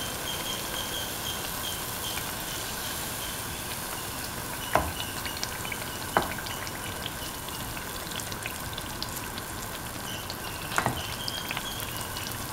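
Semolina batter pancake shallow-frying in hot oil in a pan: a steady sizzle with fine crackling. A few sharp clicks stand out, about five, six and eleven seconds in.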